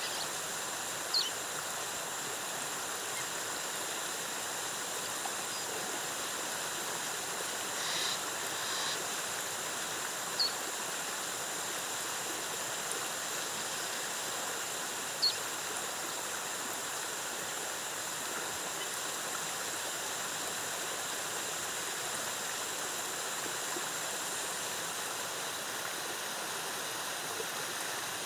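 Rainforest waterfall cascading: a steady, even rush of falling water. A few brief high-pitched chirps come through it, and a faint steady high hum sits above it.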